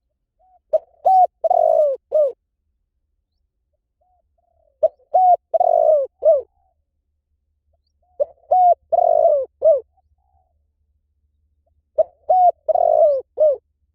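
Spotted dove cooing: four call phrases about four seconds apart, each a few short coos with a longer note in the middle.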